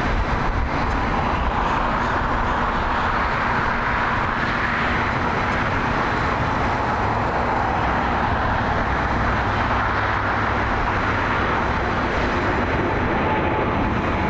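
Jet airliner engines running, a steady noise with a faint high whine.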